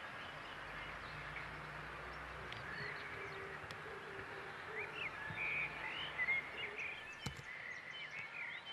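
Outdoor park ambience: a steady wash of noise with small birds chirping, the chirps coming more often in the second half. One short click or knock about seven seconds in.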